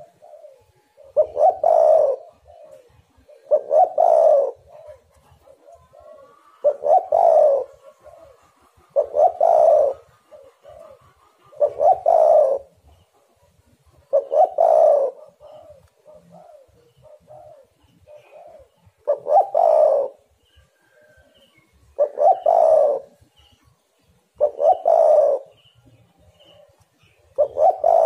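Spotted dove (tekukur) cooing in a steady series: a loud coo phrase about every two and a half seconds, with softer coos in between.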